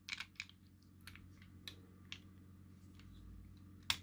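Faint scattered plastic clicks of a DIP chip being worked in a pin-straightening tool to bend its legs into line, with one sharper click near the end.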